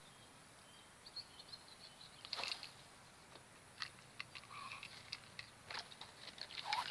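Faint outdoor ambience with scattered short high bird chirps and a few soft clicks.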